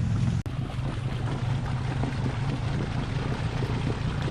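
ATV engine running steadily in deep mud, with a brief break in the sound about half a second in.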